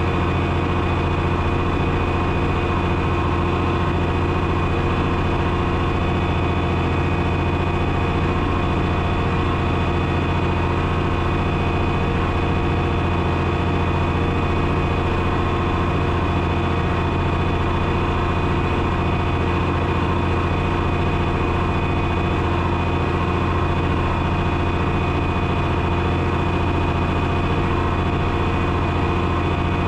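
1972 John Deere 6030's turbocharged six-cylinder diesel engine running at a steady speed, a constant low drone with no change in pitch.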